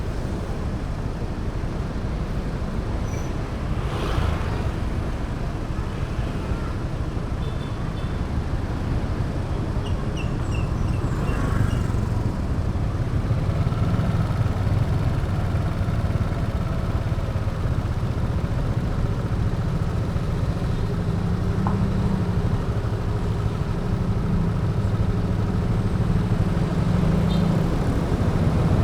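A motorbike's engine and road noise in traffic, picked up by the rider's action camera. A steady engine drone gets a little louder about halfway through.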